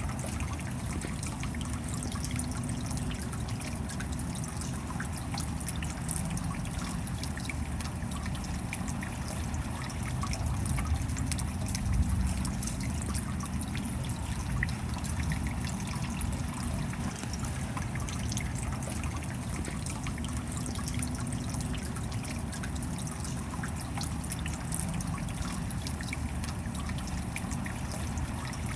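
Steady rain, with many small drops pattering and some water trickling and dripping.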